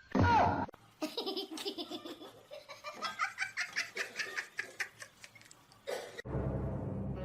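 Laughter in rapid short bursts for about five seconds, breaking off about six seconds in.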